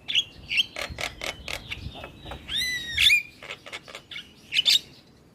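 Javan myna singing: a rapid run of sharp clicks and harsh chattering notes, with a loud whistled note bending up and down about two and a half seconds in and a sharp burst of calls near the end.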